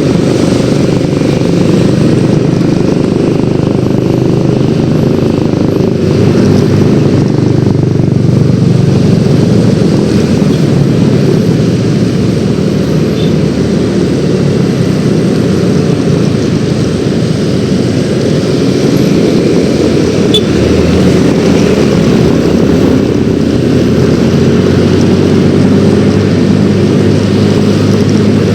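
Yamaha X-Ride 113cc scooter under way, its single-cylinder engine running steadily under a loud, even rush of wind and road noise.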